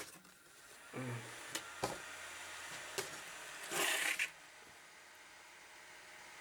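A few sharp clicks from handling the computer, with a steady fan whir from the IBM NetVista's cooling fans starting about a second in. Just before 4 s there is a short loud rushing noise, and after it the whir carries on more quietly.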